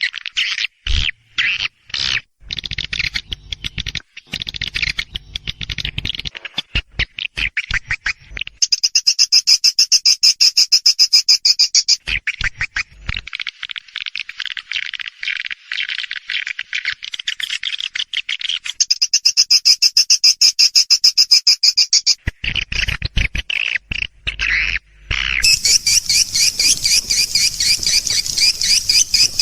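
Swiftlet lure call recording: fast trains of high chirps and twitters, with stretches of higher, denser twittering that come and go every few seconds. It is the kind of call played to draw swiftlets into a nest house.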